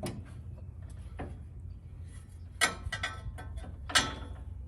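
A few sharp clinks and rattles of small hard parts being handled in a workshop. The loudest are a cluster near the middle and a single clank near the end, all over a steady low hum.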